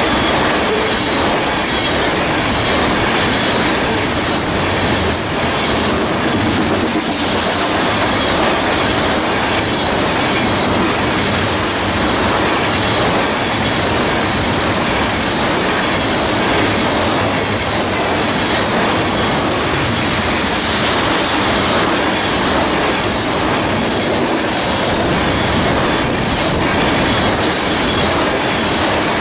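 Loaded crude-oil tank cars of a freight train rolling past at close range: a steady, loud rumble and clatter of steel wheels on the rails, with wheels clicking over rail joints and brief high-pitched wheel squeals now and then.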